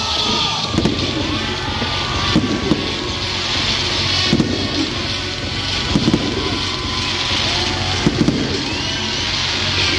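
Aerial firework shells bursting overhead, with sharp bangs every second or two, some in quick pairs, over a steady background din.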